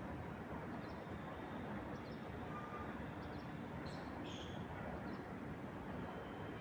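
Small birds chirping, a handful of short high calls with the strongest cluster about four seconds in, over a steady low rushing noise of wind.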